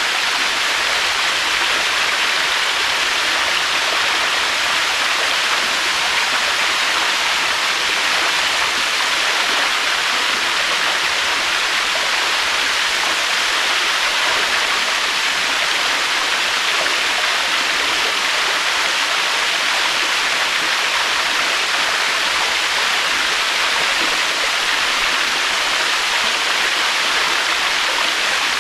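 Waterfall: falling water rushing in a steady, unbroken hiss with no surges.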